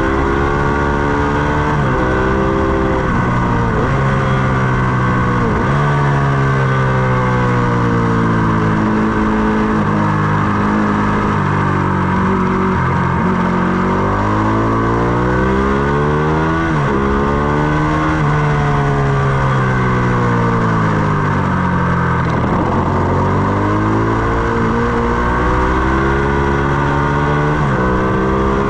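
Ducati Panigale 899's V-twin engine at full track pace, rising in pitch through the gears with sharp drops at each upshift, then falling away under braking and climbing again out of the corners. A steady wind rush lies under it.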